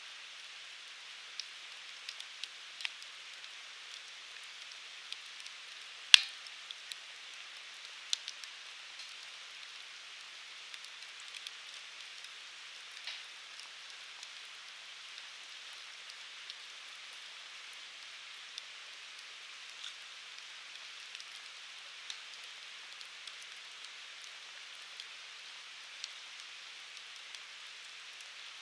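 Firewood burning in a Uniflame Fire Grill: a steady hiss with scattered crackles and pops, the loudest a sharp pop about six seconds in.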